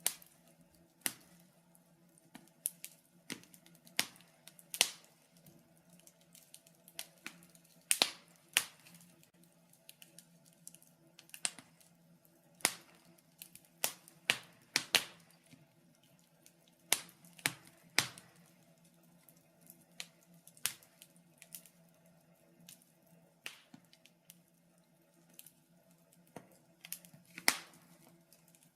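Wood fire crackling: irregular sharp snaps and pops, a few every second or two, over a faint steady low hum.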